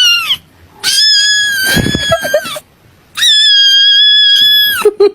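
Three high-pitched animal squeals: a short one at the start, then two long held ones, the last dropping in pitch as it ends. A low thud comes about two seconds in.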